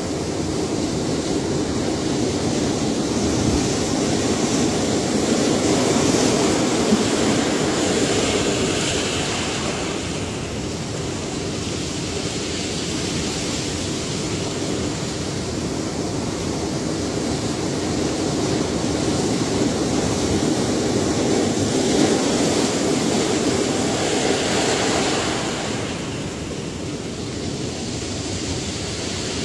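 Ocean waves breaking and washing in as a continuous surf roar that swells and eases slowly, with two broader surges a quarter-minute apart.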